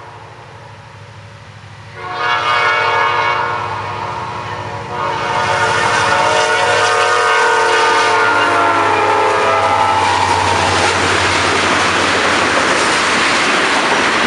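A Norfolk Southern freight locomotive's air horn sounds a short blast and then a longer one as the train approaches. The horn chord drops in pitch as the locomotive passes. After that comes the loud, steady rush and clatter of the tank cars' wheels on the rails.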